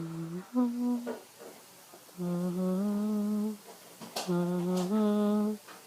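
A person humming a short tune in four phrases of held notes, stepping between a few pitches, with brief pauses between phrases.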